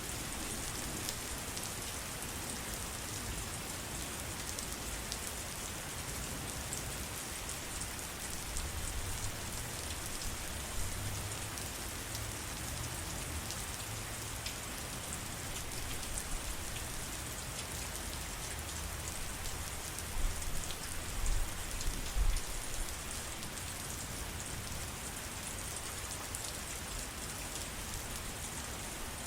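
Steady rain falling, a constant hiss with individual drops ticking through it. A few brief low rumbles swell up about two-thirds of the way in.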